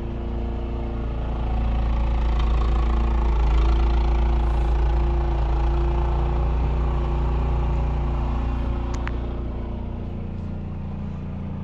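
Snowblower engine running steadily, getting louder for a few seconds and then fading as it moves off.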